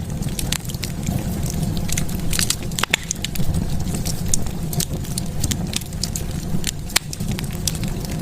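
Wood fire burning, with a steady low rumble and frequent sharp crackles and pops at irregular intervals.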